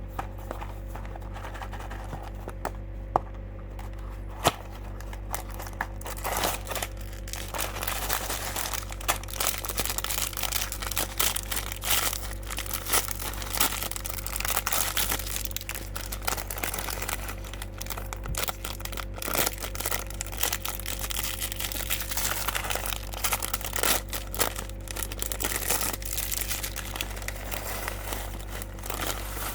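Plastic packaging of a mini building-block set crinkling and rustling as it is handled and torn open, with many small clicks. The first few seconds hold only a few sharp clicks, and the dense crinkling starts about six seconds in, over a faint steady hum.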